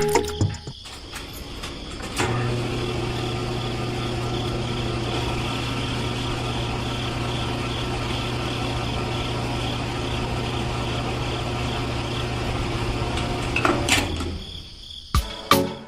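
Small electric motor running steadily with an even hum, starting about two seconds in and cutting off near the end.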